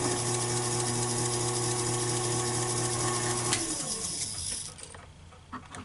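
Taig lathe running while the tool cuts into the chuck's register, a steady motor hum under a scraping hiss. About three and a half seconds in the lathe is switched off and winds down, leaving only a few small clicks.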